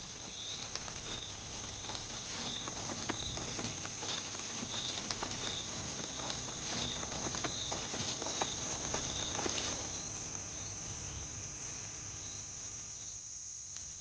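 Crickets and other insects chirping steadily, with a pulsing chirp repeating about twice a second. Over this, the patter and knocks of a moving herd's hooves over a low rumble fill roughly the first ten seconds, then fade.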